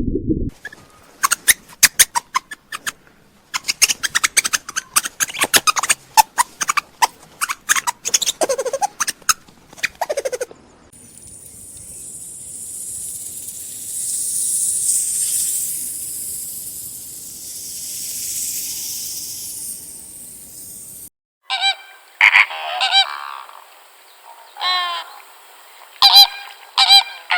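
Waterfowl calling: a rapid run of short, sharp calls for about ten seconds, then a high hiss that swells and fades, then a few spaced, ringing calls near the end.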